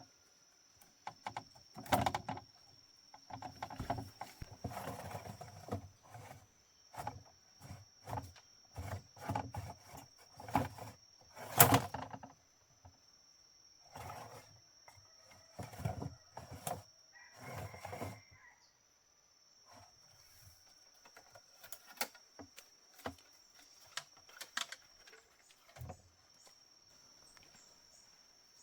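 Irregular knocks and short scrapes, thinning out after about two-thirds of the way through, over a steady high-pitched insect drone.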